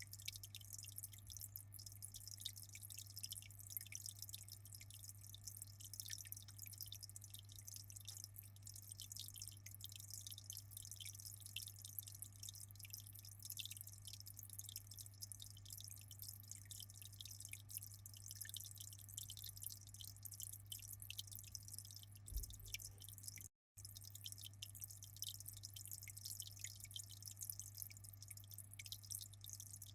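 Aquarium water trickling and dripping in a dense patter of fine drops over a steady low hum. The sound drops out completely for a split second about three-quarters of the way through.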